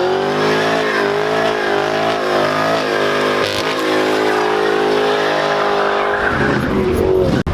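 Car engine revved hard and held high, its pitch wavering, with tyres squealing as in a burnout; near the end the revs drop back to a lower rumble.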